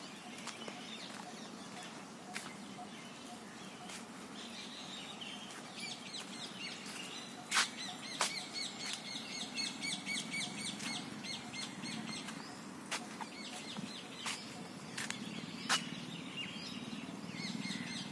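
Songbirds chirping outdoors, with a long run of rapid, evenly repeated high chirps in the middle. A few sharp clicks and a low steady hum sit underneath.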